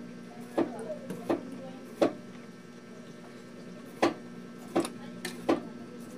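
Eating sounds while chewing a mouthful of rice: a string of sharp, irregularly spaced wet smacks and clicks, about seven, over a steady low hum.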